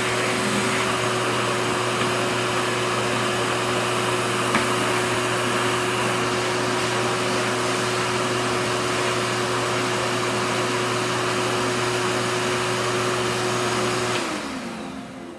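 Vacuum cleaner running steadily with a constant motor whine, then switched off about a second before the end, the whine falling in pitch as the motor winds down.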